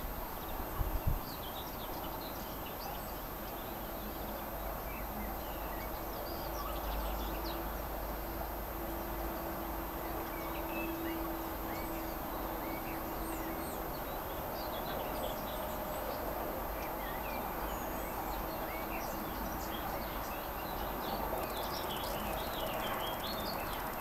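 Many small birds chirping and twittering, with short calls scattered throughout, over a steady background haze. A low drone swells and fades around the middle, and there are a couple of low thumps about a second in.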